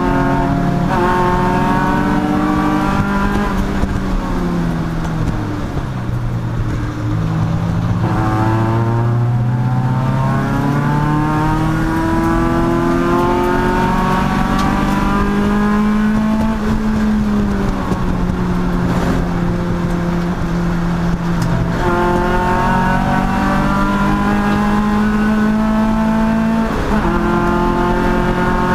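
Race car engine running hard: the revs fall over the first few seconds, then climb steadily and hold high, dropping briefly and climbing again twice near the end, as at gear changes.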